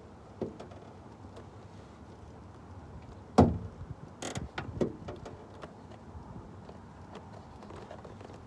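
Clunks and knocks from handling a pickup truck's door: a light knock, a heavy thud about three and a half seconds in, then a short scraping rasp and a few more clunks.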